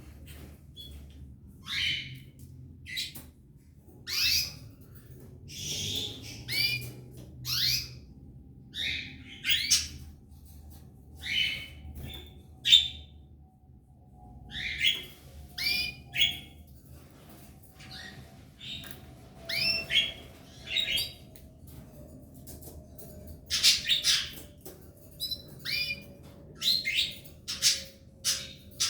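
Belgian canaries calling: short, sharp chirps, some with an upward hook, coming in scattered groups of one to three about every second or two.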